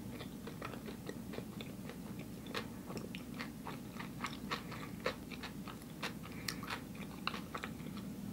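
A person chewing food with the mouth closed: a run of small crisp clicks and crunches at an irregular pace, a few of them louder.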